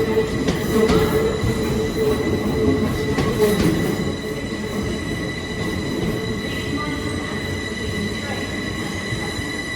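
Passenger train moving slowly through the station: a low rumble with a wavering wheel squeal in the first four seconds and a steady high whine throughout.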